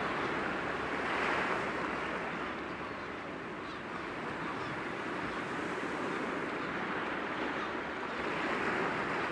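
Sea waves breaking gently against rocks, a steady wash of surf that swells twice, about a second in and again near the end.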